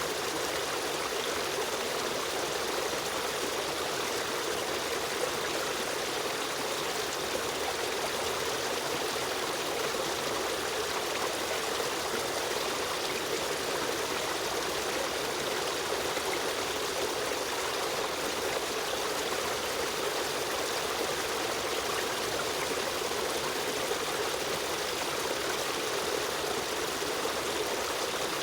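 A shallow stream running steadily, water rushing and trickling over stones in an even, unbroken flow.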